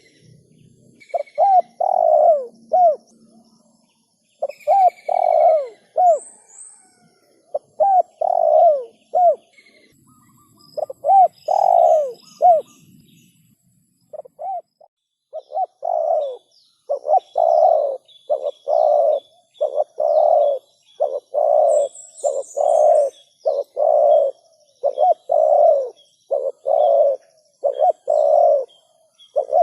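Spotted dove (tekukur) cooing in repeated phrases of curved coos, then from about halfway a steady, unbroken run of coos a little more than one a second. Faint, high chirps of small birds sound in the background.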